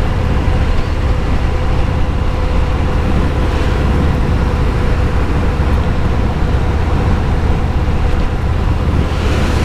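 Motorcycle engine running steadily at highway speed, a loud low rumble with wind noise on the microphone.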